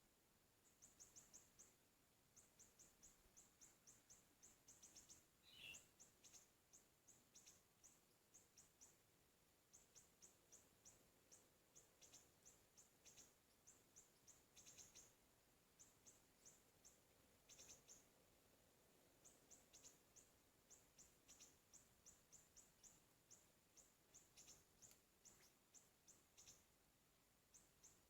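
Faint runs of short, high-pitched bird chirps, several a second, repeated over and over in the siri-siri calling used to lure the birds; one lower, louder call breaks in about five and a half seconds in.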